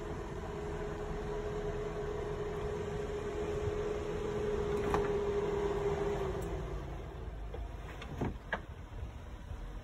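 Suzuki Jimny JB74's 1.5-litre four-cylinder engine running at low revs as the 4x4 crawls slowly downhill over rutted dirt, with a steady whine that fades out about two-thirds of the way through. A couple of sharp cracks sound near the end.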